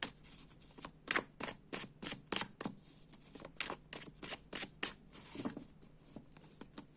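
Tarot cards being shuffled and handled by hand: a run of quick, soft card slaps that thins out after about five seconds.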